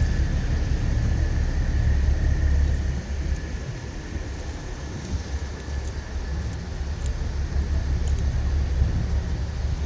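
Low rumble of big-rig engines running. It eases off about three seconds in and builds up again near the end.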